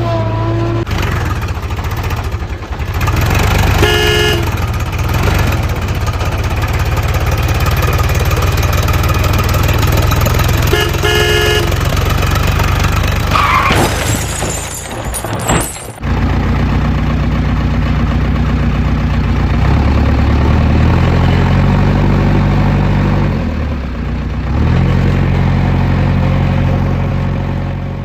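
Vehicle engine sound effect running, with a short horn honk about 4 seconds in and again about 11 seconds in. A sudden cut near the middle is followed by an engine whose pitch steps up and down as it revs.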